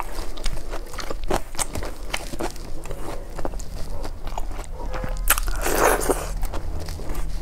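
Close-miked eating: chewing and crunching of mouthfuls of rice and stew eaten by hand, with many small wet clicks. A louder burst about six seconds in comes as a handful goes to the mouth.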